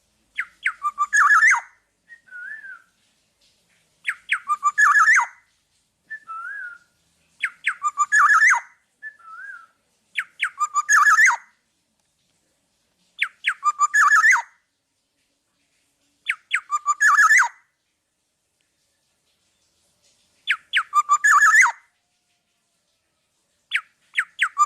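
Black-naped oriole singing: a loud phrase about every three seconds, each a quick run of sharp whistled notes ending in a fuller flourish. Short wavering whistles come between some of the phrases.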